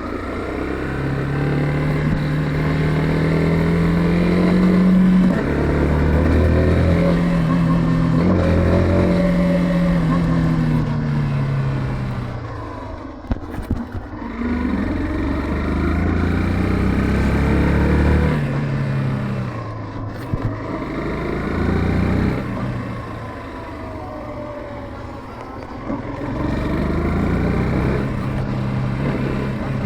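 Yamaha FZ15 ABS single-cylinder motorcycle engine heard from the rider's position while riding. It pulls up through the gears in repeated climbs, each gear change a step down in pitch, and eases off three or four times.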